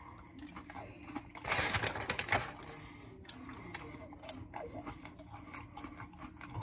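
Close-up chewing of crunchy chocolate-caramel popcorn, with a louder crackly burst about a second and a half in, then softer scattered crunches.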